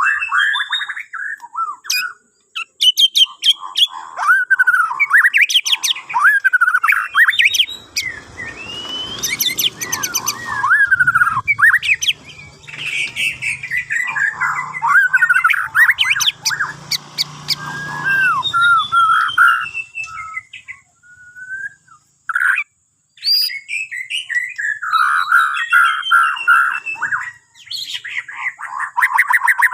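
Borneo murai batu (white-rumped shama) singing a long run of varied fluty whistled phrases, with sweeping notes and fast stuttering clicks, broken by short pauses.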